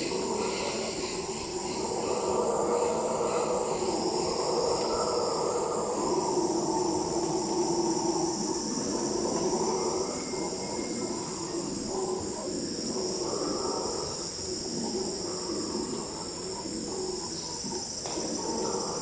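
Jungle ambience: insects trilling steadily at a high pitch, over a dense, wavering layer of lower sound.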